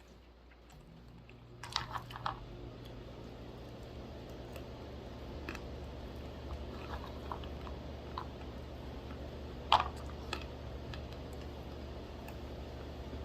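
Dry roasted almonds being crunched and chewed close to the microphone: scattered sharp crunches, a cluster about two seconds in and the loudest one near ten seconds, over a low steady hum.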